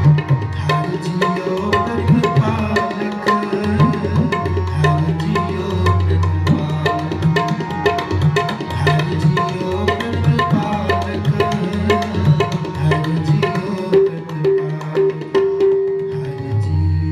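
Tabla playing a steady rhythm, its deep bass-drum strokes prominent, with a harmonium repeating a short melodic phrase: an instrumental passage between sung lines of Sikh kirtan.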